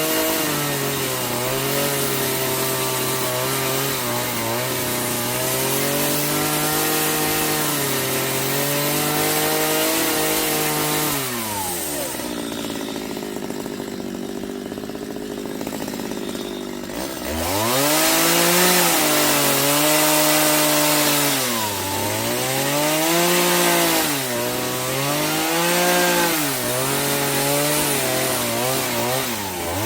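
Two-stroke chainsaw cutting wood, its engine pitch dipping and recovering again and again as the chain bites. Midway it drops to a lower, quieter running for about five seconds, then revs back up.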